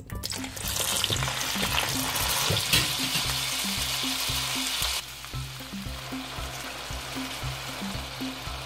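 Potato chunks hitting hot oil in a frying pan and sizzling loudly, with one sharp crack about three seconds in. About five seconds in the sound drops suddenly to a quieter, steady sizzle as the potatoes and carrots fry and are stirred with a wooden spoon.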